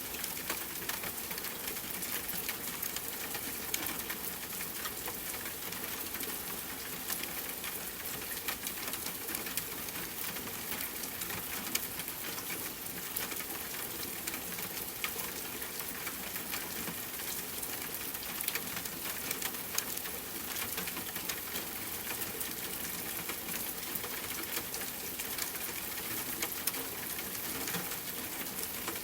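Steady rain hiss with many scattered small pops and crackles from a campfire burning.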